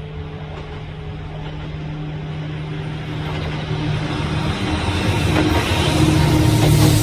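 Kintetsu electric train approaching, its steady low hum and rail noise growing steadily louder.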